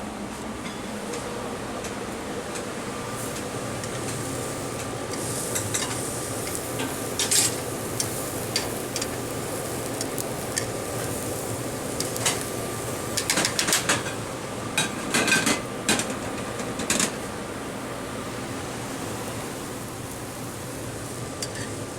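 Restaurant kitchen clatter: pans, plates and utensils knocking and clinking in a run of sharp hits through the middle, over a steady background hum.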